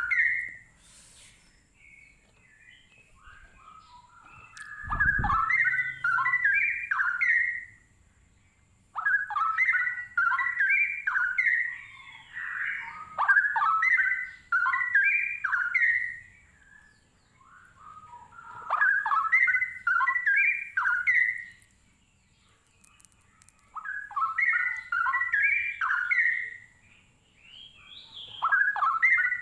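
Straw-headed bulbul (cucak rowo) singing: phrases of about three seconds made of quick rising and falling notes, repeated six times with short pauses between. A single low thump sounds about five seconds in.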